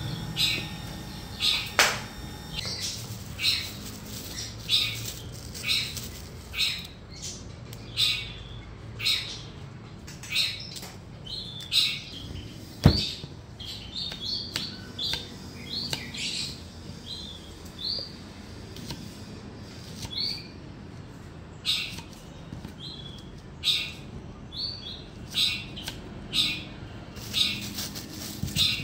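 A bird chirping over and over, short high calls coming about once every second or a little faster. A single sharp knock sounds about halfway through.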